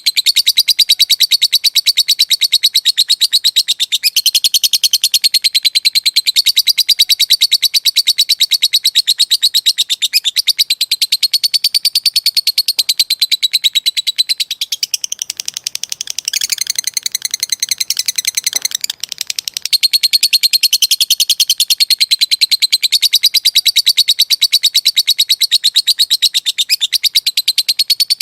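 Lovebird giving a long, unbroken ngekek: a fast, high-pitched chattering trill of rapidly repeated notes. About fifteen seconds in, the trill softens and changes pattern for a few seconds, then the fast chatter resumes.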